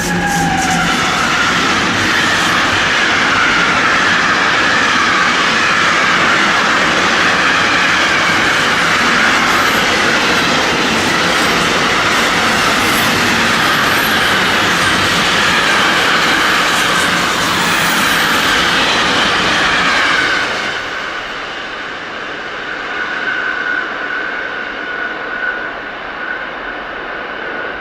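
Train passing close by on the line, its wheels and wagons rolling past loudly with a falling whine as it goes by. About twenty seconds in the noise drops off suddenly as the end of the train passes, leaving a fainter steady whine from the rails.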